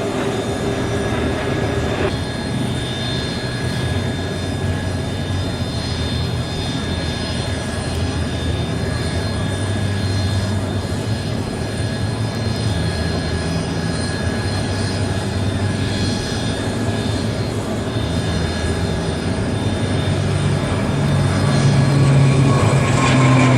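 Aircraft engines running steadily, with low humming tones and a thin high whine held throughout, growing louder near the end.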